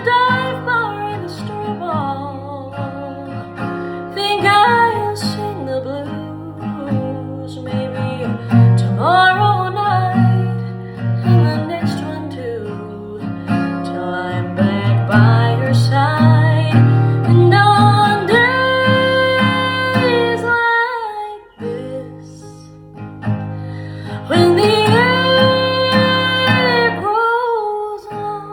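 A woman singing a folk-country song over strummed acoustic guitar, with a short drop in level about two-thirds of the way through.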